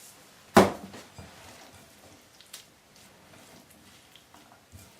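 Kitchen handling sounds while salt is worked into a bowl of chicken salad: one sharp knock about half a second in, then a few faint clicks.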